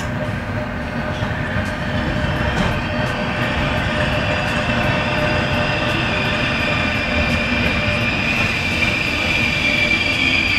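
Regional passenger train heard from aboard as it rolls through a station, a steady rumble of wheels on rail with light regular clicks. A high wheel squeal grows louder toward the end.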